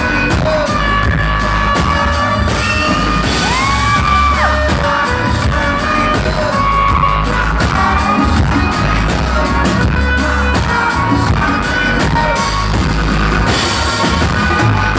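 Live band playing loudly, heard from among the audience: a steady drumbeat and heavy bass under singing, with voices shouting and whooping over it.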